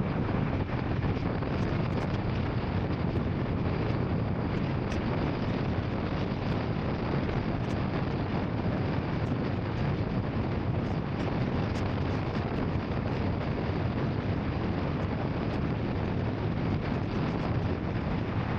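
Royal Enfield Scram 440 motorcycle under way: a steady rush of wind on the microphone mixed with engine and road noise, with no change in pace.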